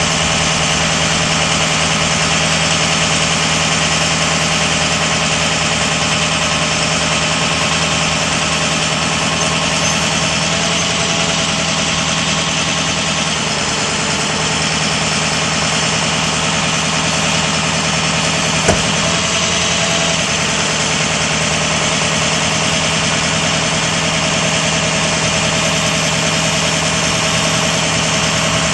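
Ford 6.0L Power Stroke V8 turbodiesel idling steadily in a 2003 Ford F550 bucket truck, with a single sharp click about two-thirds of the way through.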